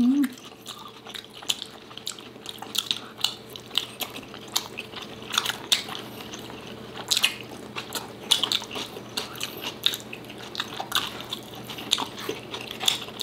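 Close-miked chewing of two people eating by hand, with wet lip smacks and mouth clicks coming at irregular intervals, several a second.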